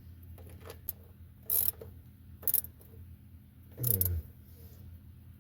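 Hand tools working on metal: a few sharp metallic clanks about a second and a half and two and a half seconds in, and a longer sound falling in pitch about four seconds in, over a steady low hum.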